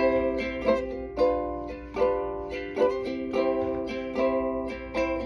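Chords strummed on a small plucked string instrument at a steady, unhurried pace, about one strum every second or less, each chord ringing until the next.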